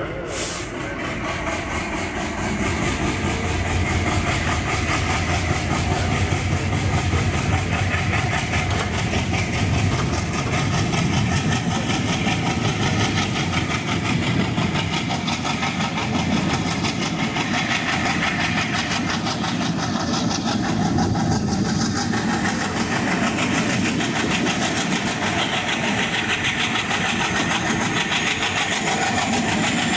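Train running along the track: a steady rumble and rattle of wheels and coach that builds over the first few seconds, then holds steady. A faint rising whine comes in near the end.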